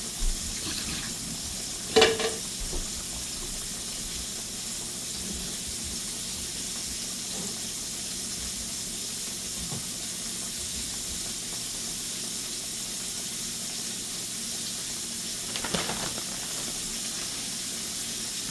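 Food frying in hot oil in a pan, with a steady sizzle. A utensil knocks once against the pan about two seconds in, and there are a few lighter clinks near the end.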